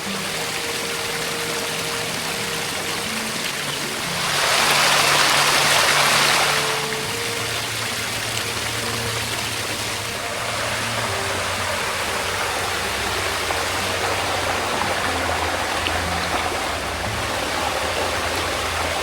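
Water of a limestone waterfall running in a steady hiss, swelling louder for a couple of seconds about four seconds in. Soft background music with a low melody plays underneath.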